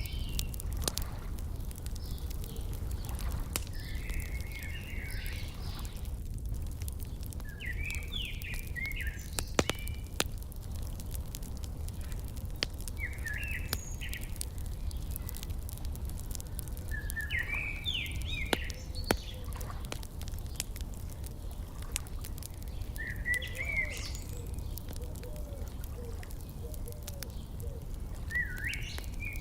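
A songbird repeating the same short chirping phrase about every five seconds, six times, over the sharp pops and crackle of a wood fire and a steady low rumble.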